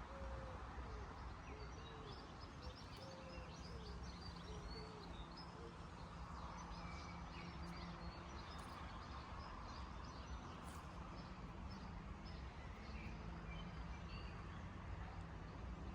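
Several small birds singing and chirping with many quick high notes, over a steady low hum. In the first few seconds there are also a few lower, wavering calls.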